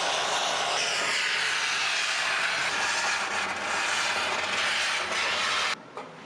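A loud, steady hiss that cuts off suddenly near the end, followed by a faint knock.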